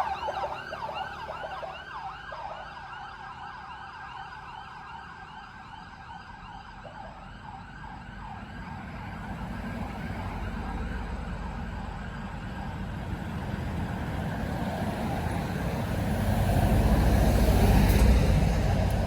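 A bus's siren-style horn yelps in a fast repeating warble that fades away over the first several seconds. Then the bus's engine and tyre noise on the wet road swell as it passes, loudest near the end.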